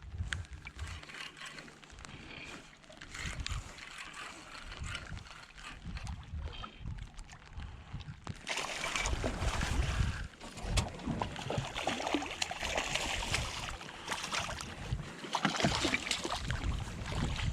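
Water sloshing and splashing around a small boat, with uneven gusts of wind on the microphone and small knocks; it grows louder about halfway in.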